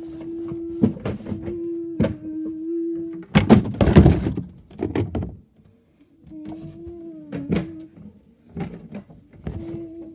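Garbage truck bin-lifting and hopper mechanism working: a steady whine in stretches, broken by knocks and clunks, with a loud clatter of bin contents tipping in from about three and a half to five seconds.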